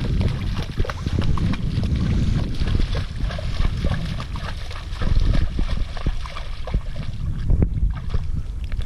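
Wind buffeting the microphone in a steady low rumble, with scattered clicks and rustles over it.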